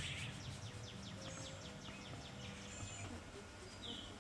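Birds chirping: a quick run of short chirps, each sliding down in pitch, several a second, over a faint steady low hum.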